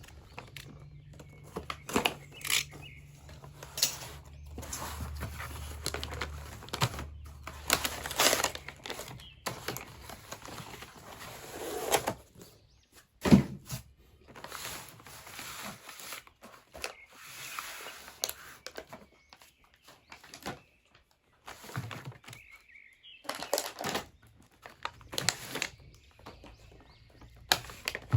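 Toys and their packaging being handled: irregular rustling, clicks and knocks, with one sharp knock about halfway through.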